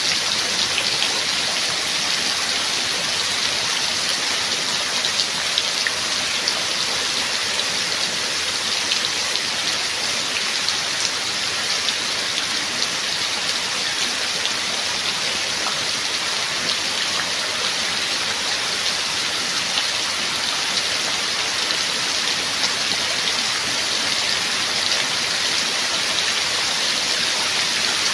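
Steady rain falling: an even hiss with scattered sharp ticks of single drops striking.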